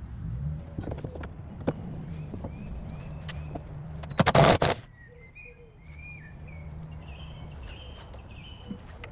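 Birds chirping over a low steady hum, with a few light knocks and one loud half-second noise about four seconds in.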